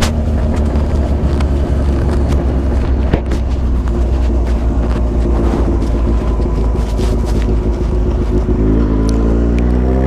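Yamaha XJ6's inline-four engine running steadily through a Jeskap 4-2-1 aftermarket exhaust, then rising in pitch as it revs up near the end.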